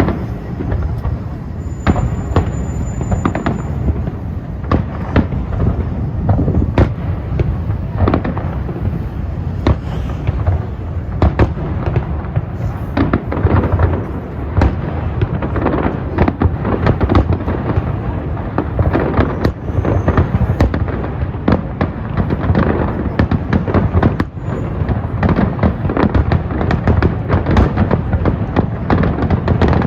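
Large fireworks display: a dense, almost continuous barrage of bangs and crackles, shell bursts overlapping one another over a steady low rumble.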